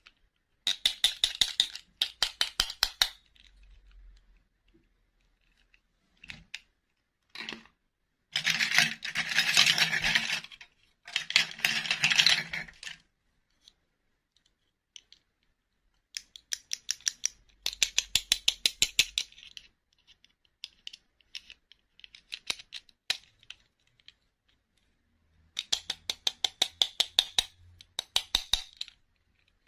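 Rapid plastic clicking in bursts of one to three seconds, about six times, like a toy mini tractor's gears or wheels ratcheting as it is rolled along. The burst a little after the middle is denser and longer.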